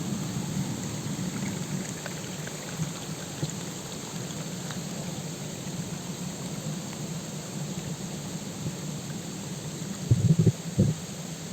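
Steady rushing of falling water from a waterfall and river, with a few loud thumps near the end.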